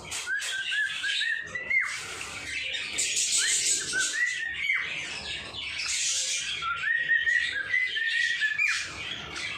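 Pet birds calling: runs of short whistled notes that step upward in pitch and end in a quick downward swoop, repeated about three times over busy, scratchy chatter.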